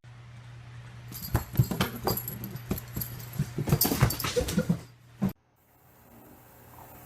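A pet animal's short whimpering cries among a run of quick clicks and knocks, over a steady low hum. It all stops abruptly about five seconds in, leaving a faint steady hiss.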